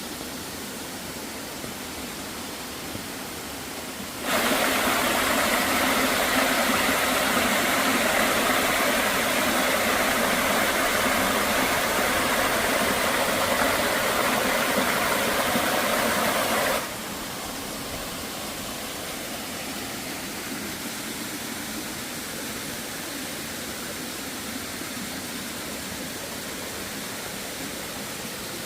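Steady rushing noise with no distinct events, which jumps abruptly louder about four seconds in and drops back just as abruptly about twelve seconds later.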